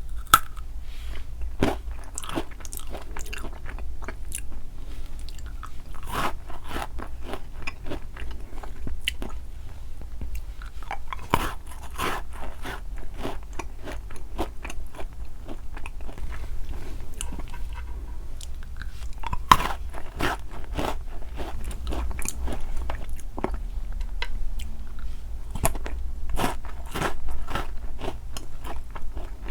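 Close-miked mouth sounds of eating sweets: biting and chewing with crisp, crackly crunches in irregular clusters, a few louder crunches standing out.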